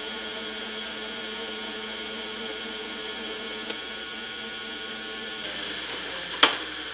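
Metal lathe running with a steady motor whine, taking a further light threading pass. The sound changes about five and a half seconds in, and a sharp click comes near the end.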